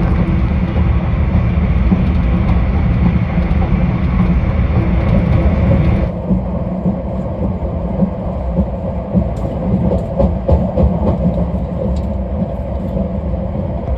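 Running noise of the Talgo-built Afrosiyob high-speed train at speed, heard on board: a steady deep rumble with hiss. About halfway through, the hiss drops away abruptly, and scattered short knocks come through the rumble.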